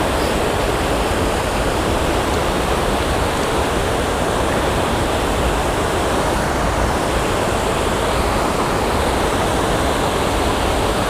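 Steady rush of creek water pouring over a small spillway and rock riffle, an even, unbroken noise with no change in level.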